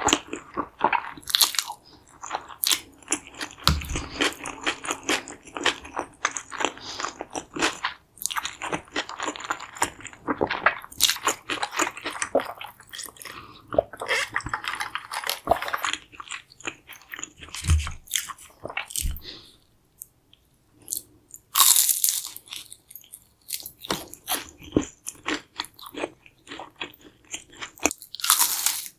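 Close-miked crunching bites and chewing of a deep-fried chimichanga's crisp tortilla shell, with a brief pause about two-thirds through followed by a loud crunching bite.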